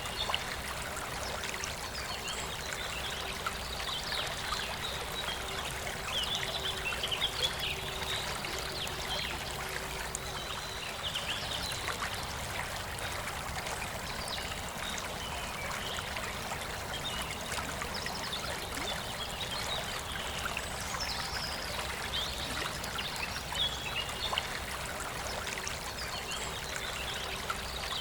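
A forest river flowing steadily, with birds chirping on and off over the rushing water.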